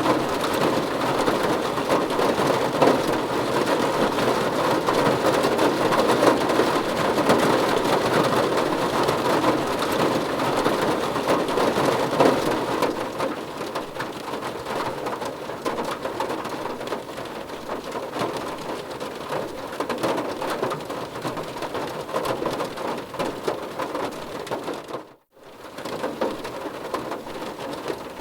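Steady heavy rain falling on a car's roof and windows, heard from inside the car. It eases a little about halfway through and cuts out for a split second near the end.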